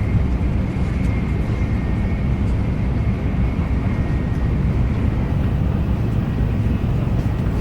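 Shinkansen high-speed train running at speed, heard from inside the passenger cabin: a steady low rumble with a faint thin whine above it.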